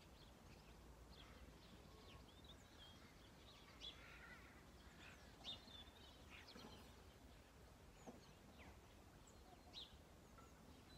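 Quiet outdoor near silence with faint birdsong: scattered short chirps and calls from small birds, some a little louder about four, five and a half, and ten seconds in.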